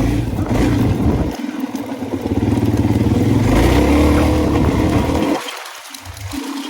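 Suzuki DR-Z400E single-cylinder four-stroke dirt bike engine running under throttle. It dips briefly about a second and a half in, pulls harder around the middle, and drops away abruptly about five seconds in.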